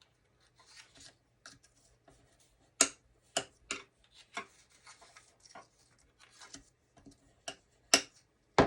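Cardstock being folded and creased by hand along its score lines: soft rubbing strokes with several sharp taps and clicks of the paper, the loudest near the end.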